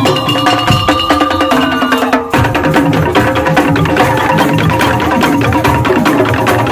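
Madurese tong-tong (ul daul) ensemble playing: wooden slit drums and drums in a fast, dense rhythm under a few held melodic notes. About two seconds in the ensemble breaks off for an instant, then comes back in at full strength.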